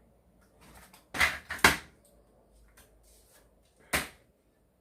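A few sharp knocks and clatters as the newly assembled washing machine stand is handled and moved: two close together a little over a second in and another near the end.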